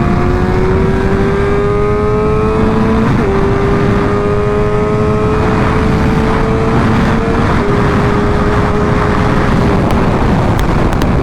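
Motorcycle engine accelerating hard, its note climbing slowly in pitch for several seconds before it drops back and fades, under heavy wind rushing over the helmet microphone.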